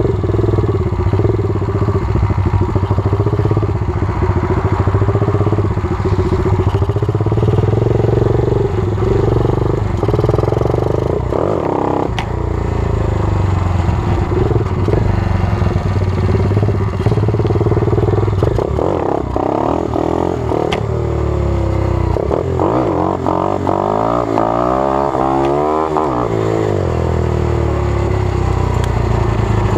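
120cc pit bike's single-cylinder four-stroke engine running while ridden, its revs rising and falling, with a long drop in revs about three-quarters of the way through.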